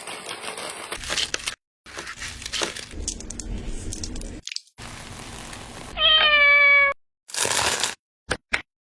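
A cat meows once, a single drawn-out call about a second long that sinks slightly in pitch, among short bursts of kitchen clatter and clicks broken by abrupt cuts.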